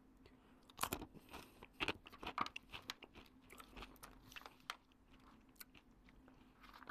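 A person chewing coconut-coated cashews, with a run of irregular crunches that start about a second in and thin out toward the end; the nuts are really crunchy.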